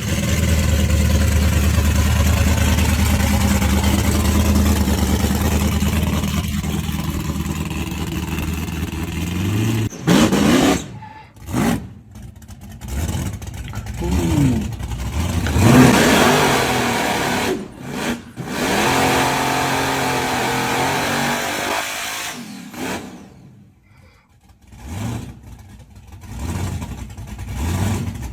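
Hot rod car engine held at steady high revs for about ten seconds, typical of a burnout. It is followed by a series of separate revs and accelerations that rise and fall, with abrupt breaks between them.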